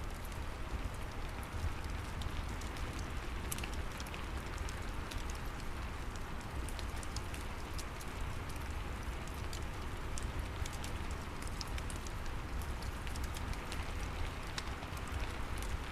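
Steady rain falling, mixed with the frequent small, sharp crackles of a wood fire in a fireplace.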